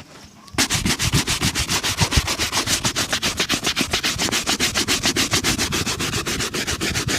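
Rapid, even back-and-forth rubbing strokes on a shoe during a shoe shine, starting about half a second in and keeping a steady fast rhythm.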